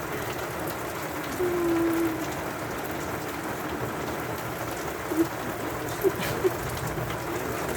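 Steady rain falling, an even hiss, with a short steady low tone about a second and a half in and a few light taps near the end.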